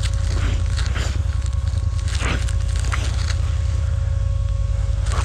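ATV engine idling steadily with a faint whine, and a few sharp crunches over it.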